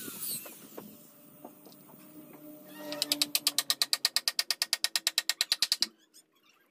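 Rapid, even mechanical clicking like a ratchet, about ten clicks a second, starting about three seconds in and stopping abruptly after about three seconds.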